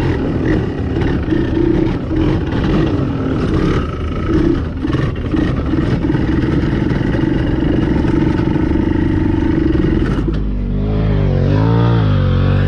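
Dirt bike engine running hard under throttle, with clatter. About ten seconds in it drops to lower, wavering revs.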